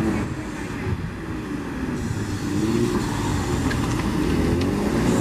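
Car engine running, its pitch rising and falling a few times as it is revved or driven, growing a little louder toward the end.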